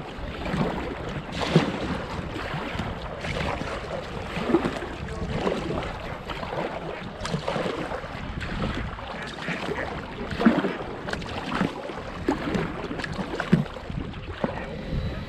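Wind buffeting the microphone over moving water, with irregular knocks and splashes every second or two, as around a canoe on the water.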